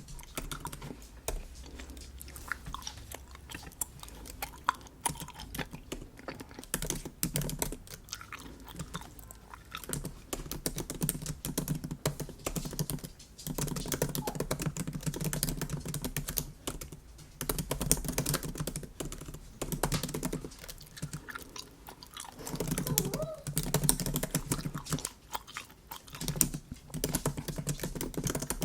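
Typing on a MacBook keyboard, a dense run of light key clicks, mixed with close-miked chewing of bubble gum in stretches of a few seconds.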